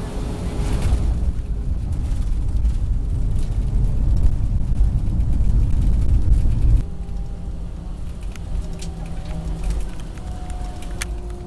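Airliner cabin noise: a heavy low rumble with the jet engines running that drops suddenly about seven seconds in, leaving a quieter cabin with a thin steady engine whine.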